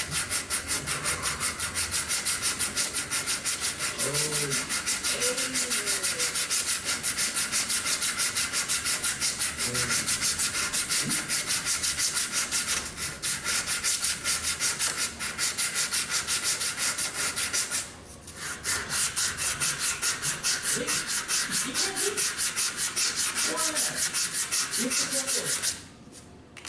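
Hand sanding of a Kentucky rifle's wooden stock, sandpaper rubbed back and forth in quick even strokes, about five a second, with a short pause about two-thirds of the way through. The sanding shapes the wood down to fit the nose cap.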